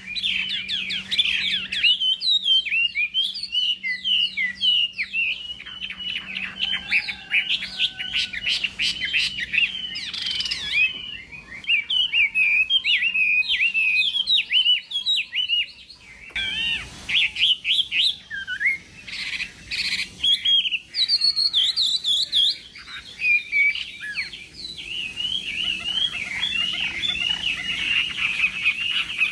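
Chinese hwamei singing a long, rapid run of varied whistled phrases, with a short break about halfway through.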